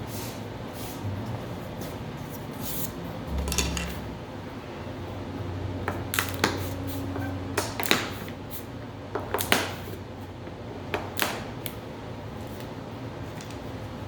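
Workshop tools being handled: a series of irregular sharp clicks and knocks, thickest in the middle of the stretch, over a steady low hum.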